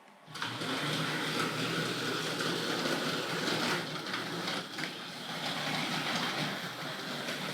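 Hornby Dublo GWR 0-6-2 tank locomotive, running with its body off, reversing on three-rail track: a steady running noise of its electric motor and wheels on the rails, starting about half a second in.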